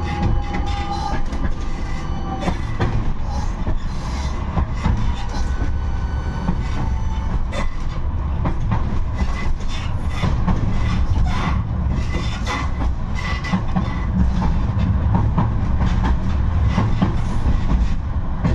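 71-628-02 tram running along the track, heard on board: a steady low rumble with many clicks and rattles of wheels over the rails, and a thin whine briefly about six seconds in.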